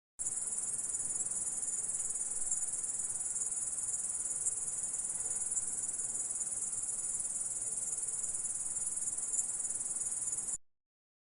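Grasshopper stridulating: a steady, high-pitched buzzing trill that starts abruptly and cuts off suddenly near the end.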